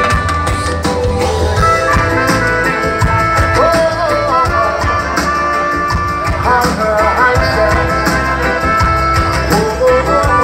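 Live reggae band playing an instrumental passage of the song, with a heavy, steady bass line under sustained melody lines.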